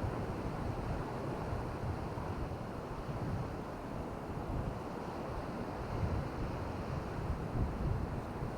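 Wind buffeting the microphone in low gusts over a steady wash of surf.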